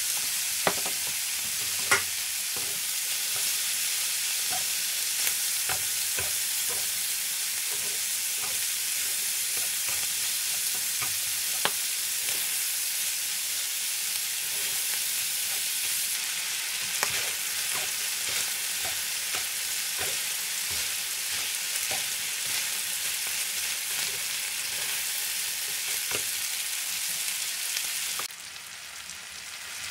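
Pork and vegetable stir-fry sizzling in a frying pan while a wooden spatula tosses it, knocking against the pan now and then. The sizzle drops off sharply near the end.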